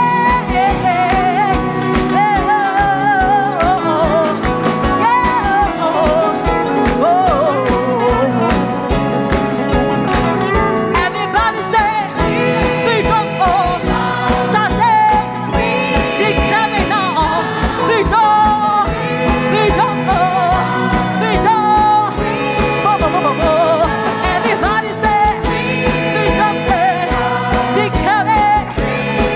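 Live gospel worship music: singing voices over a full band with a steady, driving beat.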